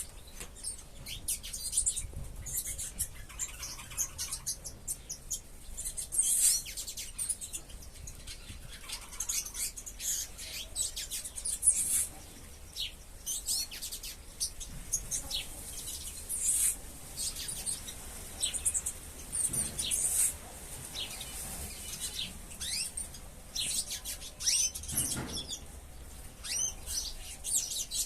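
A flock of small ornamental aviary birds chirping, with many short, high chirps overlapping.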